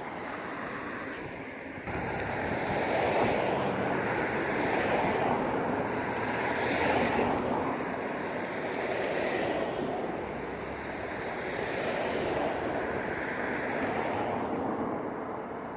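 Aircraft engine noise at an air show: a rushing roar that jumps up about two seconds in and then swells and fades in slow waves.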